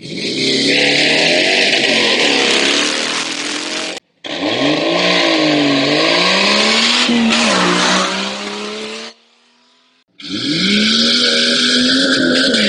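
Off-road 4x4 engines revving and accelerating hard away from the start line, the pitch climbing and dipping with each blip of the throttle. There are three takes, with the sound cutting out briefly about four seconds in and again about nine seconds in.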